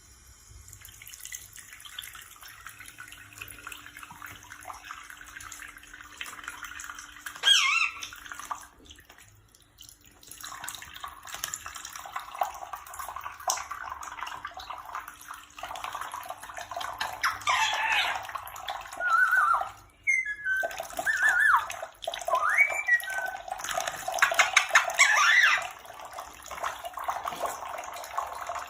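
Running water, like a tap or a filling tub, with a few short squeaky sounds that slide up and down in pitch over it.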